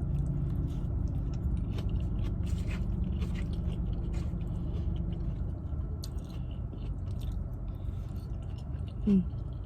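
Close-up chewing of food with many small crunches and mouth clicks over a steady low hum, and a short hum of the voice just before the end.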